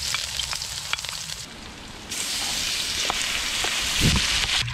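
Onion and garlic sizzling as they fry in oil in an aluminium wok, with a few light clicks. The sizzle dips briefly about halfway, and a low thump comes near the end as raw pork goes into the pan.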